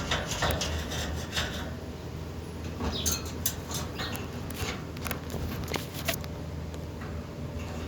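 Irregular small scratches and clicks from a pet parrot eating and moving about, over a steady low hum.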